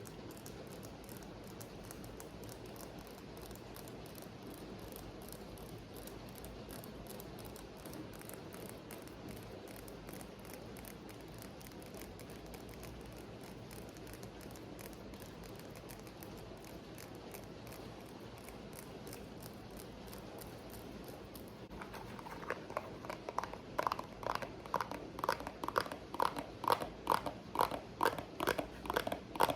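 Steady hiss of a rain recording used as background. About three-quarters of the way through, quick rhythmic ASMR tapping starts on top of it, about three taps a second.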